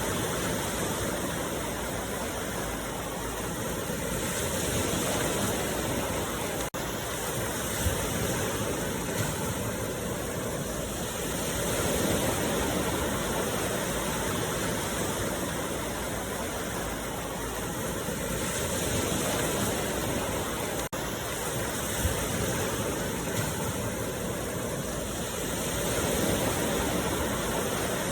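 Ocean waves breaking on a beach: a continuous wash of surf that swells and eases about every seven seconds, with two momentary dropouts in the sound.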